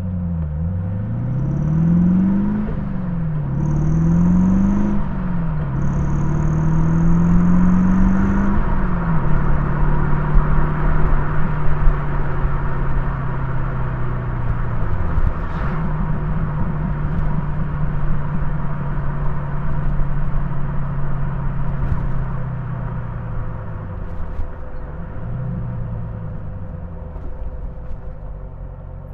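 Morgan Plus 8's Rover V8 heard from inside the car, accelerating hard through the gears: the engine note climbs three times, dropping back at each upshift. It then settles into a steady cruise with road noise, and near the end it slows and picks up again.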